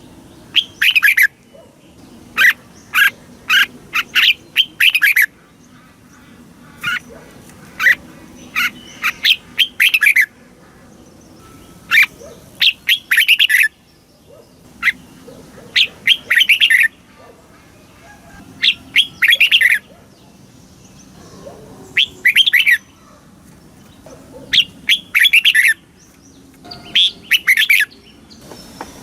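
Red-whiskered bulbul singing: short phrases of quick, clear warbling notes, each about a second long, repeated every two to three seconds.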